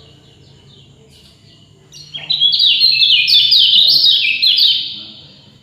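A songbird singing: faint chirps at first, then about two seconds in a loud, fast run of sharp rising chirps lasting about three seconds before it stops.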